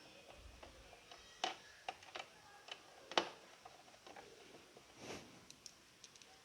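Scattered light clicks and knocks of a mixer grinder's plastic body and parts being handled and fitted together during reassembly, the sharpest knock about three seconds in.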